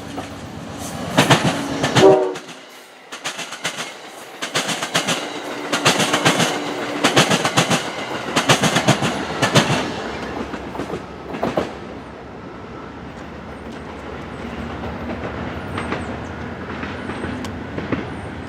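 Passenger train passing at speed, its wheels clicking over rail joints in quick runs of loud clicks for about ten seconds, then a steadier, quieter rumble.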